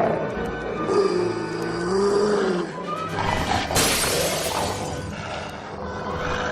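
Cartoon soundtrack: dramatic music with dogs growling and snarling, and a sudden crash about four seconds in.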